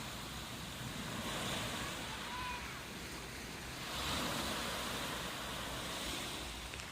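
Sea waves washing onto a beach, swelling louder about a second and a half in and again around four seconds.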